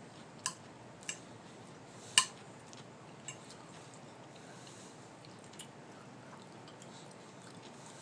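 Eating sounds at a meal: five short, sharp clicks, the loudest about two seconds in, over a low steady background.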